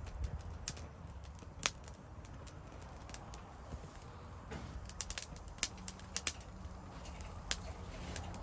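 Wood fire burning in a secondary-combustion fire pit, crackling with irregular sharp pops over a low steady rumble; the pops come thickest a little past the middle.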